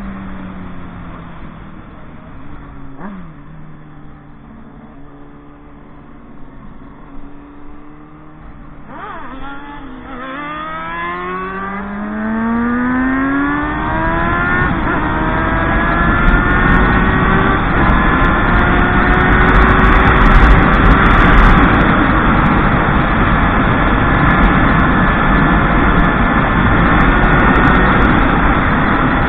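Motorcycle engine easing off to low revs, then accelerating hard from about nine seconds in, with a gear change near fifteen seconds. It then runs steadily at speed with wind rushing over the microphone.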